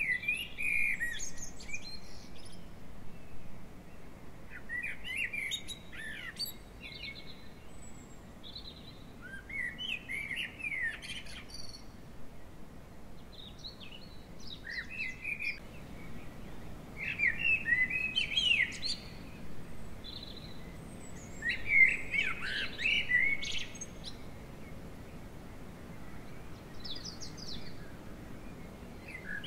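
A songbird singing: short, rapid, varied phrases repeated every few seconds, about eight in all.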